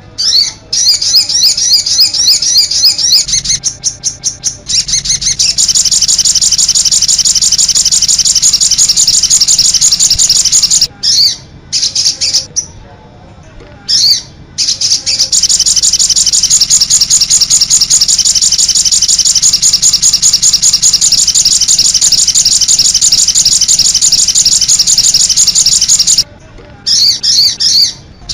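Songbird song played as a masteran training recording: a fast, high-pitched trill in long unbroken runs, breaking off briefly about eleven and fourteen seconds in and again near the end.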